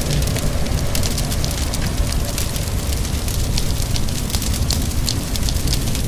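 Wood fire crackling, with frequent sharp irregular pops over a steady low rumble, and rain falling steadily.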